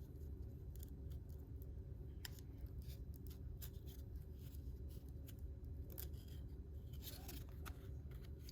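Trading cards being flipped through one at a time: scattered faint slides and snaps of card stock against card stock, over a low steady room hum.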